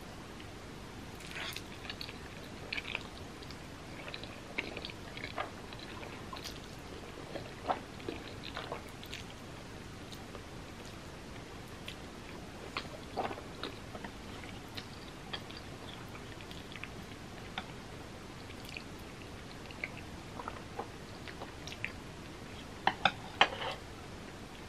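Close-up chewing of mouthfuls of black bean noodles, with soft wet mouth sounds and scattered small clicks. A few sharper clicks come close together near the end.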